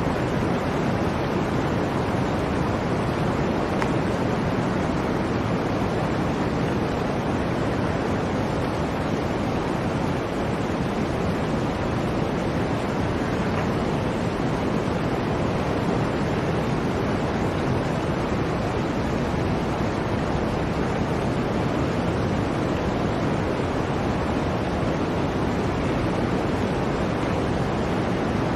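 Blizzard wind blowing steadily: a continuous, even rush of noise with no gusts or breaks.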